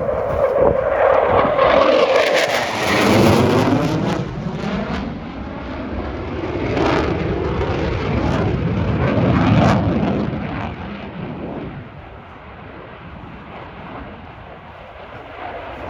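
Military aircraft flying past at an airshow, its loud engine noise swelling with a slowly sweeping, phasing tone as it passes, then fading away near the end.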